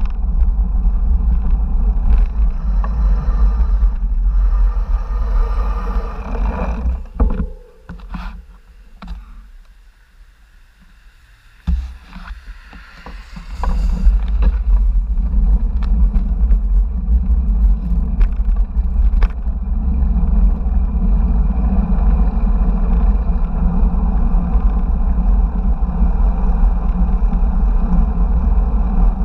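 Wind buffeting an action-camera microphone during a bicycle ride, a steady deep rumble with road and traffic noise. It falls away sharply for several seconds in the middle, then comes back.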